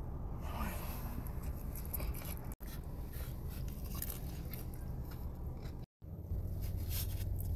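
Close mouth sounds of a person chewing a mouthful of loaded fries, with small wet clicks, over a steady low hum. The sound drops out briefly twice, at cuts in the audio.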